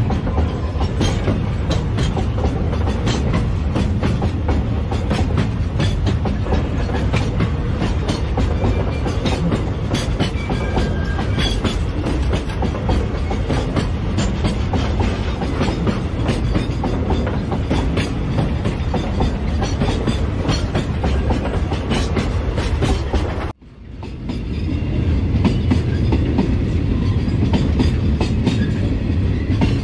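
Railway tank wagons of a freight train rolling past close by: steady wheel rumble with many sharp clicks of wheels over the rail joints. The sound cuts out suddenly a little after two-thirds through and comes back within a second or so.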